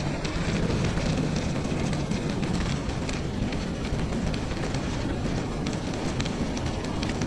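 Steady rushing noise of a bicycle ride over a snowy trail, tyre and wind noise, with many small clicks and crackles throughout.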